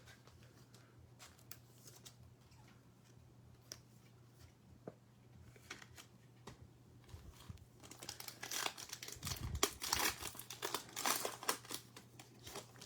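A few faint clicks, then from about eight seconds in a few seconds of crinkling and tearing as a trading-card pack wrapper is ripped open.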